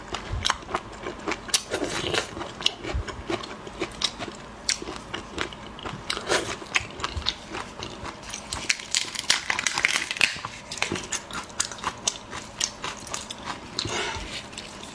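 Close-up crackling and crunching of a large prawn's shell being broken open and bitten: many quick, irregular cracks and snaps.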